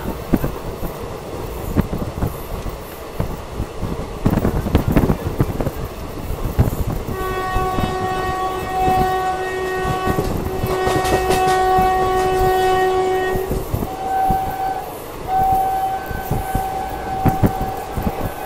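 Passenger train running with its wheels clattering over the rail joints. About seven seconds in, a train horn starts sounding in long blasts, broken twice. It then changes to a thinner, higher tone that holds to the end with one short break.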